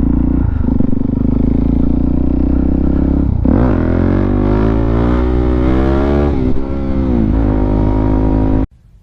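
Suzuki DR-Z400SM's single-cylinder four-stroke engine running under way. It holds steady for a few seconds, then revs climb and drop several times as it pulls through the gears, and the sound cuts off suddenly near the end.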